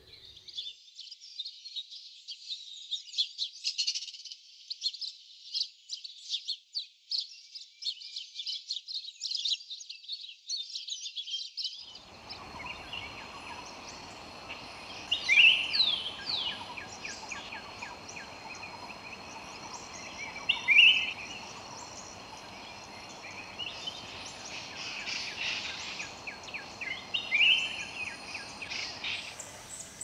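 Birds chirping: for about twelve seconds a dense run of rapid, high chirps, then, after an abrupt change, scattered gliding bird calls over a steady background hiss with a faint continuous high tone.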